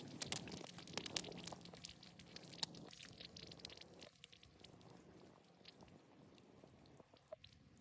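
Faint water spurting and spattering from a snow-melting pipe's road nozzles, heard as irregular little clicks and crackles that thin out over the seconds.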